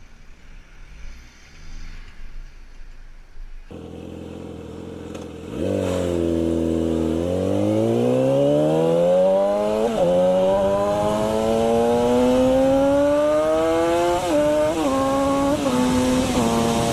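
Motorcycle engine accelerating hard, its pitch climbing steadily and dropping at each gear change, with several quick shifts close together near the end. It starts about five seconds in, after a few quiet seconds.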